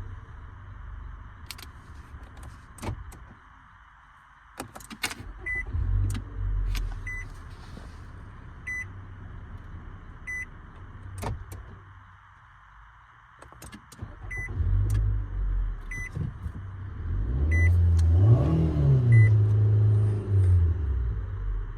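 A 2014 Nissan Altima's engine is heard in three stretches separated by short pauses, with a brief rise and fall in pitch, like a rev, near the end. A warning chime in the car beeps about every second and a half through the middle, with a few sharp clicks.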